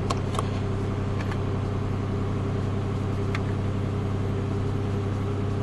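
2008 Pontiac Grand Prix's 3.8-litre Series 3 V6 idling steadily shortly after a cold start at about 31 °F, with a few faint ticks.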